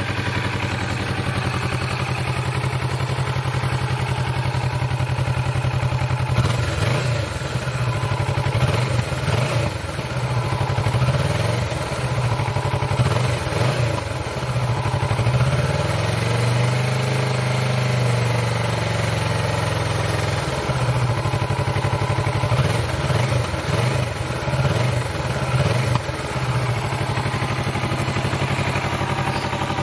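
Warmed-up 2020 Kawasaki Vulcan S 649 cc parallel-twin on its stock exhaust, idling with a series of quick throttle blips. About halfway through, one longer rev climbs and settles back, followed by more short blips before it returns to a steady idle.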